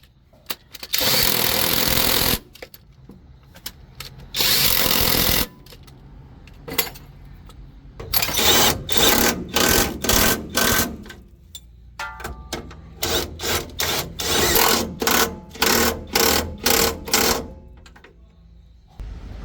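Power tool running in bursts: two runs of a second or so each, then a rapid string of many short trigger pulls.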